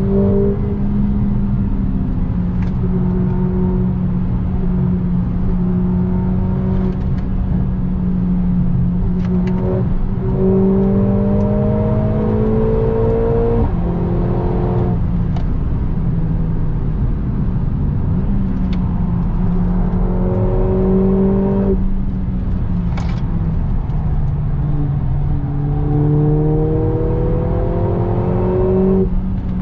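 Mercedes-AMG A45 S's turbocharged 2.0-litre four-cylinder heard from inside the cabin, pulling hard with its note climbing in pitch and dropping suddenly at upshifts three times, over steady tyre and road rumble. A few short sharp clicks sound in between.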